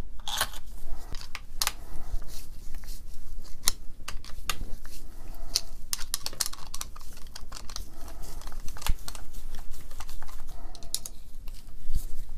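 Small screws being fitted into the housing of a vintage AEG BH25 rotary hammer by hand: irregular light clicks and taps of metal screws and tools on the casing.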